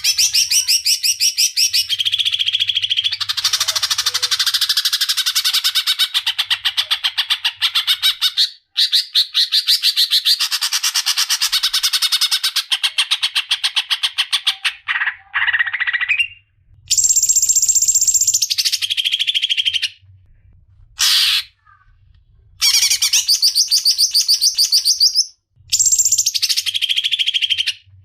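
Green leafbird (cucak ijo) singing its long rolling song: loud, several-second runs of very fast repeated notes that shift in pitch from phrase to phrase, broken by short pauses.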